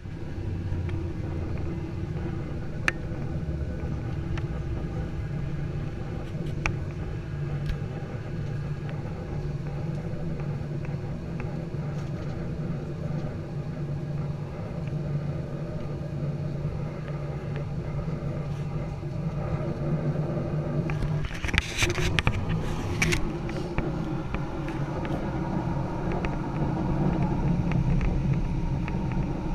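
Boeing 737-800 jet engines running at low power, heard inside the passenger cabin as a steady low hum that grows louder near the end, with a brief rattle about two-thirds of the way through.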